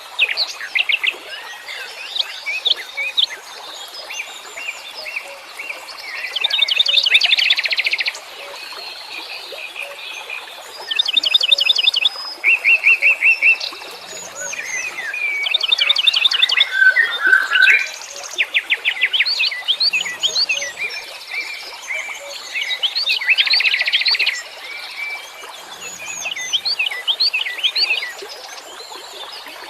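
Wild songbirds chirping and singing together, several calls overlapping, with loud rapid trills of one to two seconds breaking in every few seconds.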